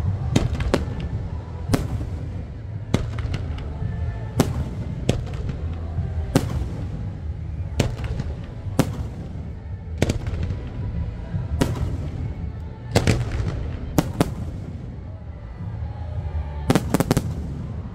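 Fireworks going off: a string of sharp bangs, about one a second, with quick clusters of several bangs near the middle and the end, over a steady low rumble.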